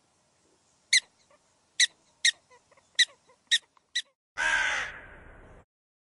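A crow calling: six short, sharp, high calls about half a second apart, then one louder, harsh caw that cuts off abruptly.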